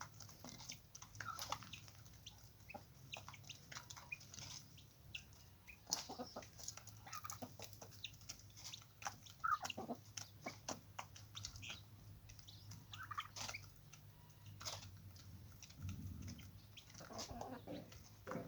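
Chickens clucking, with many short clicks and taps scattered throughout and a brief falling call near the middle.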